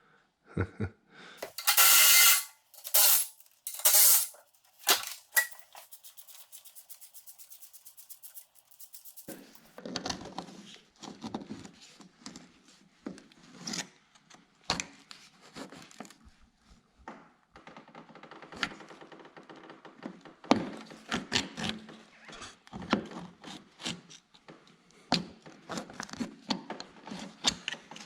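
Impact wrench run in several short bursts about two to four seconds in, backing out bolts on a tractor's sheet-metal panel, followed by a fast even ticking and then a long run of irregular knocks, clinks and rattles of tools and loose metal parts being handled.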